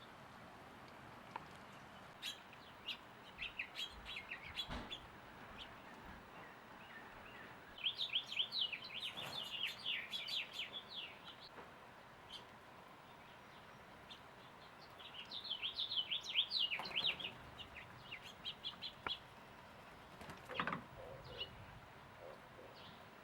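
Small songbirds chirping and twittering in quick bursts, with two busier spells of chatter and scattered single chirps between.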